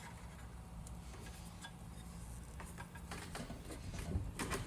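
Faint scattered clicks and light metal handling as the fuel line is worked off a small engine's carburetor, over a steady low hum. The handling gets louder near the end.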